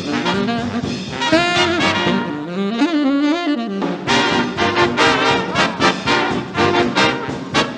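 Fast up-tempo swing jazz played by a band with no vocals. About two and a half seconds in, the rhythm section drops out briefly and held, wavering horn notes carry on. At about four seconds the full band comes back with a driving beat.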